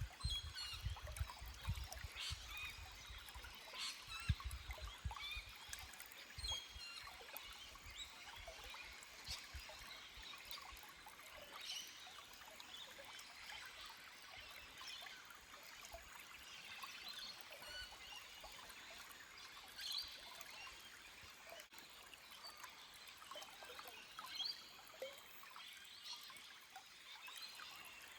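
Small forest stream flowing over rocks in a steady trickle with many small splashes, and birds calling. A low rumble comes and goes in the first few seconds.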